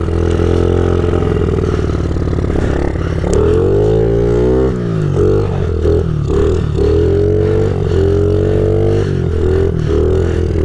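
A 2015 Honda CRF50's small single-cylinder four-stroke engine runs steadily, then revs hard with its pitch climbing, dropping off and climbing again several times. The rear tire is spinning in snow with little grip.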